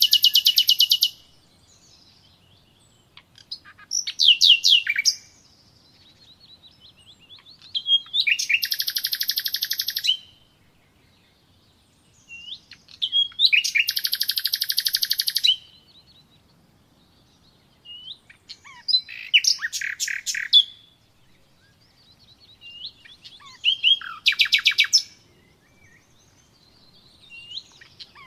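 A songbird singing: bursts of rapid, high trilled notes one to three seconds long, repeated about every five seconds, with a few soft single notes in between.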